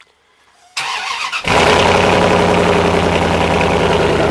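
Truck engine cold-started: the starter cranks briefly, then the engine catches about a second and a half in and settles into a loud, steady idle.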